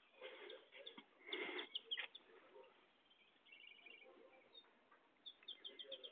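Faint bird chirping: short high calls, with rapid runs of about five notes a second around the middle and again near the end. A brief rustling noise about a second and a half in is the loudest sound.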